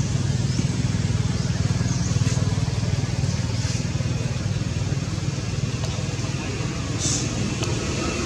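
An engine running steadily at an even speed, with a low, finely pulsing rumble.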